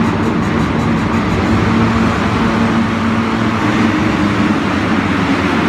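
Dirt bike engines running steadily, with a held engine note that shifts up a little about four seconds in.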